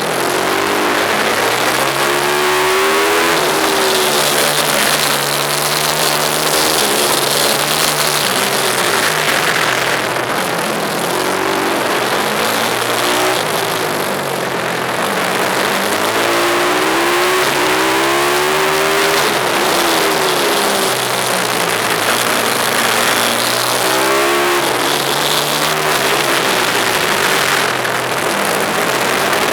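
Pit bike's small single-cylinder engine ridden hard, revving up in repeated rising runs that break off at each shift or lift and drop back, cycle after cycle.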